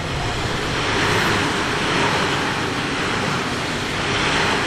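Tobu 30000 series electric train running past, a loud, steady rush of wheel and running noise that builds over the first second and then holds.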